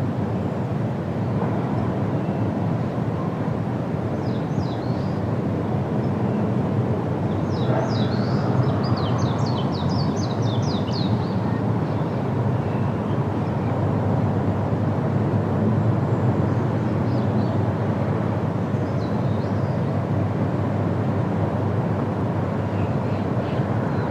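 Steady wind rushing through trees, with small birds chirping over it: a short burst of chirps about four seconds in, then a quick run of them from about eight to eleven seconds.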